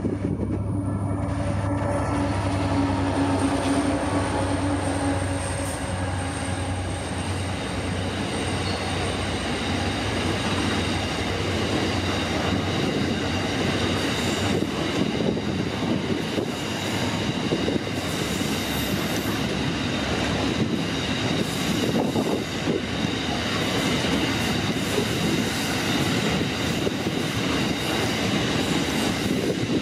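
A diesel-hauled freight train passing close by. At first the locomotives' engines hum steadily. Then a long string of hopper wagons rolls past, wheels clicking over the rail joints, with steady high squealing from the wheels.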